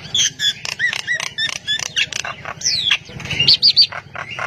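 Caged songbird singing a rapid, varied song: quick whistled notes sweeping up and down, mixed with sharp clicks, several each second.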